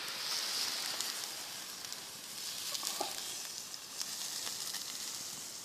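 Kupaty sausages sizzling on a wire grill grate over a campfire: a steady hiss with scattered small crackles and pops.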